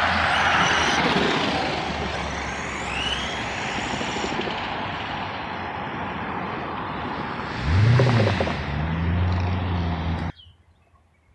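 Redcat Shredder 6S RC truck driving, its motor whining up and down over loud tyre and dirt noise, with a low hum joining about eight seconds in. The sound cuts off suddenly near the end.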